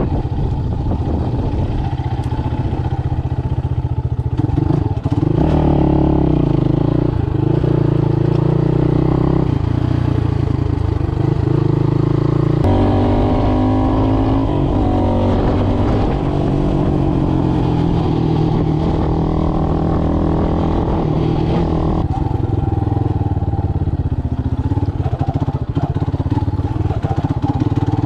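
Motoland Legend motorcycle engine running as it is ridden, with the revs shifting in steps several times and climbing for a couple of seconds about halfway through.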